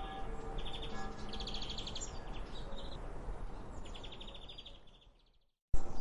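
Birds singing in quick trills and short chirps over low background noise, while faint music fades out in the first second. It all fades to silence about five seconds in, then a louder sound starts abruptly just before the end.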